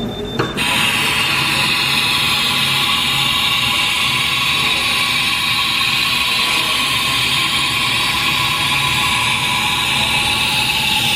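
A short high beep, then the Haas TM-2 CNC mill starts running about half a second in, with a loud, steady, even machine noise that stops right at the end.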